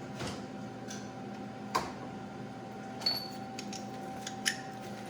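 Metal hand tools clicking and clinking, a ratchet and socket extension being handled, in a handful of sharp separate clicks about a second apart, one with a brief metallic ring. A faint steady hum runs underneath.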